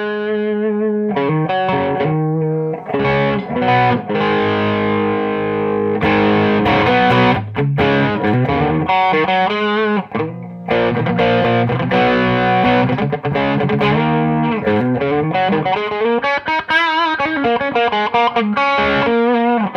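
Electric guitar played through the Audiostorm Quad Screamer overdrive pedal in its silicon clipping mode, a classic Tube Screamer-style drive. It plays distorted chords and note runs, with brief breaks about three and ten seconds in.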